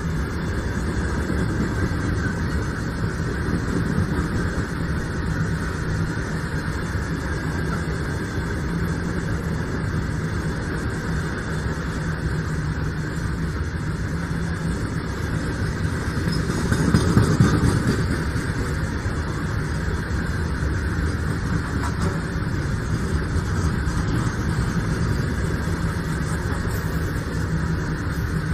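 Diesel multiple-unit passenger train passing close by: a steady rumble of wheels on the rails with a low engine hum, swelling briefly louder a little past the middle.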